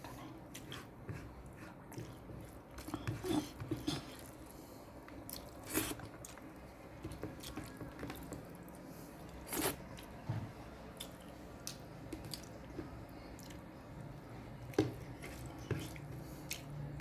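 A person eating a meal of rice, greens and dal: faint chewing and mouth noises, with a few short, sharp clicks and smacks.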